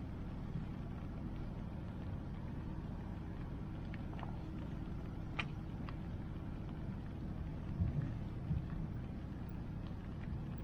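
Steady low rushing of a flowing river, with a few sharp pops from a crackling wood fire in the middle and a couple of soft low thumps near the end.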